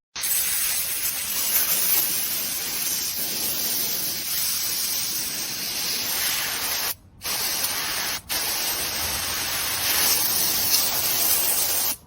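A steady, even spraying hiss that cuts out briefly twice, about seven and eight seconds in.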